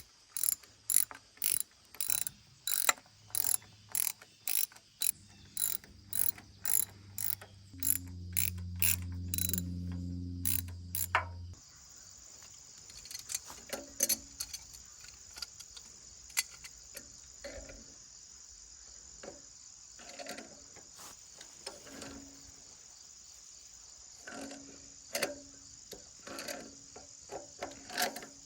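Hand-tool mechanism clicking in a regular rhythm, about two sharp clicks a second, with a low hum for a few seconds. About eleven seconds in the clicking thins out to scattered softer clicks over a steady high-pitched whine.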